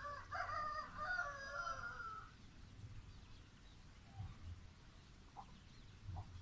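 A bird's long call with several pitches stacked together, lasting about two seconds and dropping in pitch as it ends, followed by a few faint short chirps.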